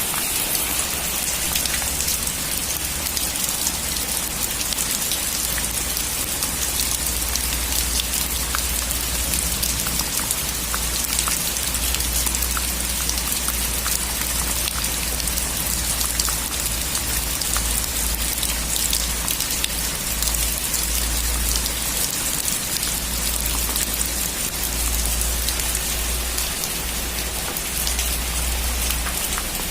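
Heavy rain falling steadily on a metal roof, with dense pattering drops over a low, continuous rumble.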